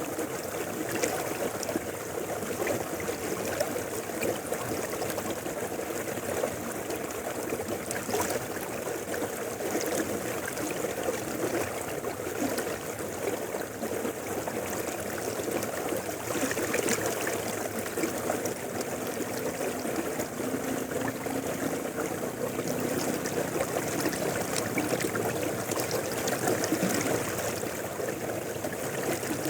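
A mountain river flowing steadily, water rushing and babbling over rocks.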